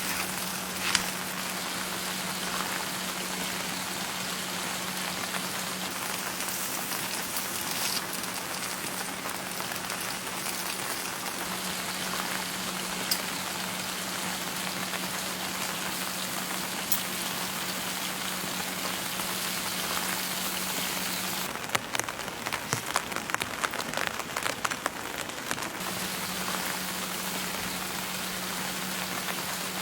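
Steady rain falling, a dense even patter, over a constant low hum. Past the middle the hum stops for about four seconds and the patter turns irregular, with louder individual drops ticking, before the hum comes back.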